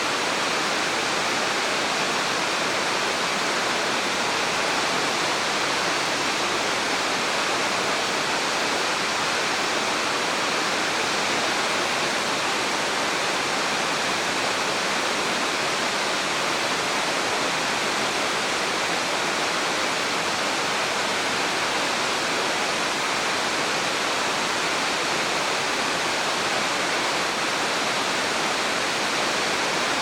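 Steady, even rush of water in a mountain gorge, a waterfall or fast stream, unchanging throughout.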